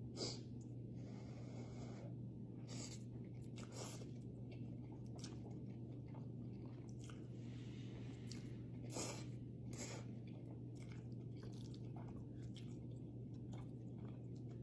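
A person eating ramen close to the microphone: soft wet chewing and mouth clicks, with a few louder smacks, over a steady low hum.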